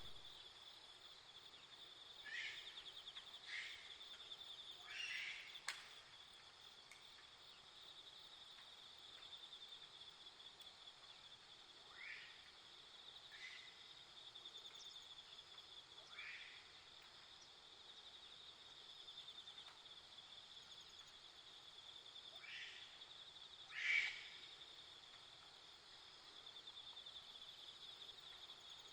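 A faint, steady high insect trill, like crickets, runs throughout. About eight short animal calls sound over it, the loudest near the end.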